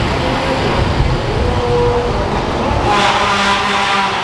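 Car engines running with a deep rumble, joined about three seconds in by a loud, steady pitched tone that holds for over a second.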